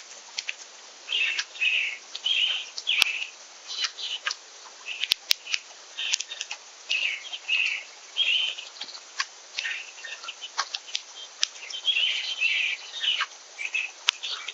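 Small backyard birds chirping over and over, short high calls often in quick pairs, mixed with many short sharp clicks.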